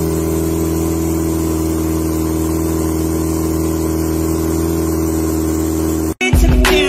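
Car engine fitted with a row of exposed turbochargers idling steadily at a constant pitch. About six seconds in it cuts off abruptly and a brief, louder, different sound follows.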